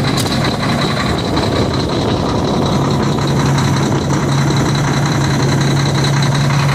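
Old Volvo's engine idling steadily just after a cold start in about 2-degree cold, hateful sounding, with a low drone that grows stronger about three seconds in.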